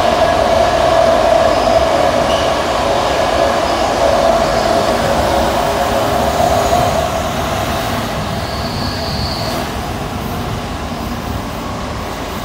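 Cabin noise of a heritage S set double-deck electric train running through a tunnel: steady rumble with a strong steady tone that fades out about halfway, the whole sound growing quieter as the train leaves the tunnel. A brief high wheel squeal comes near the end.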